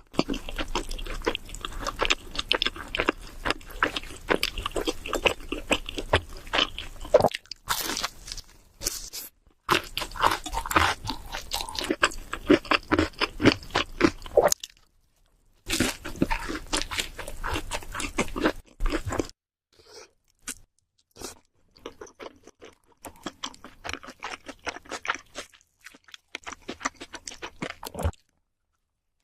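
Close-miked chewing and crunching of cheese seafood pizza, the crust crackling between the teeth, in runs broken by short pauses. It grows softer about two-thirds of the way through.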